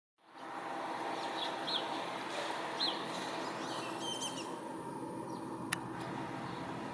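A few short, high bird chirps over a steady background hum, with a busier call about four seconds in and a single sharp click near the end.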